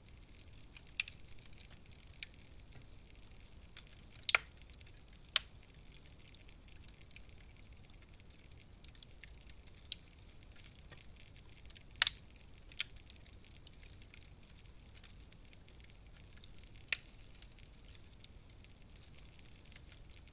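Wood fire crackling in a fireplace: irregular sharp pops and snaps a second to several seconds apart over a faint steady hiss, the loudest a little past four seconds in and around the middle.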